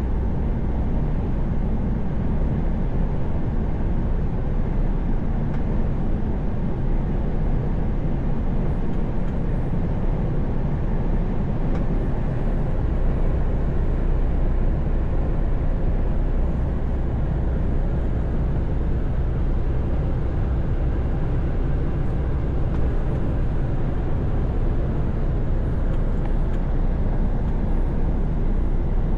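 Truck driving at steady highway speed: a constant low engine drone mixed with tyre and road noise, unchanging throughout.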